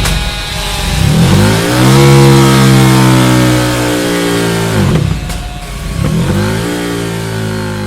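KTM 1290 Super Duke's V-twin engine through an aftermarket exhaust being revved: the revs climb about a second in and hold, fall back around the middle, blip up once more briefly, then settle lower.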